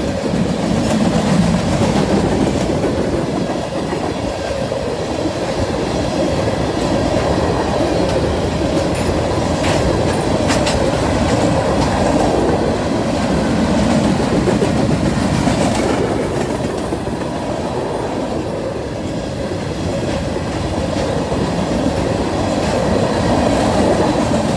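Freight train of covered hopper cars rolling past at a steady pace: a continuous rumble and rattle of steel wheels on rail, with a few sharper clanks in the middle stretch.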